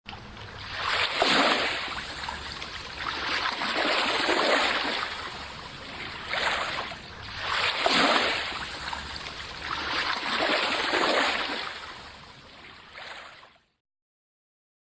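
Water rushing and splashing, swelling and easing every three seconds or so, then cutting off abruptly near the end.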